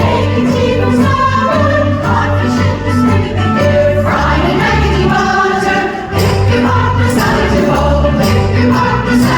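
Women's chorus singing an upbeat song over an accompaniment with a stepping bass line and a steady percussion beat.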